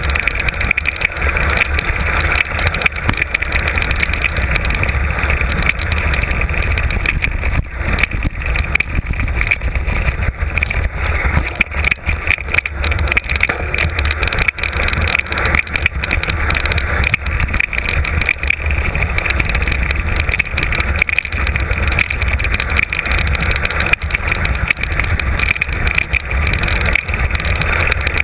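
Mountain bike ridden fast downhill over a rough trail, heard from an onboard camera. There is a heavy wind rumble on the microphone and constant rattling knocks from the bike and tyres over the rough ground.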